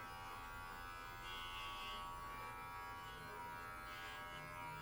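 Electric pet hair clippers running with a steady, quiet buzz.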